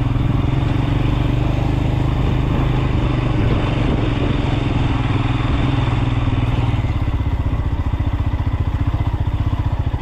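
Motorcycle engine running under a rider on a slippery mud track, holding a steady note, then dropping to low revs in the last few seconds, where its separate beats can be heard.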